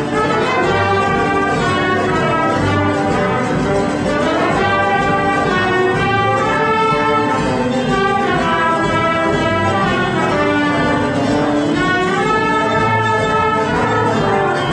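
Live theatre pit orchestra playing an instrumental passage, with brass and bowed strings holding sustained chords.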